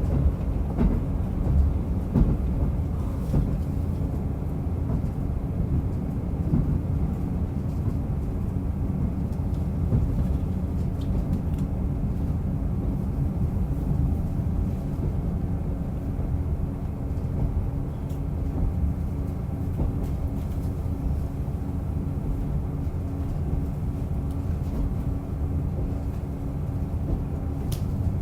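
Diesel railcar running along the line, heard from inside the car: a steady engine drone with the low rumble of wheels on rail and a few faint clicks.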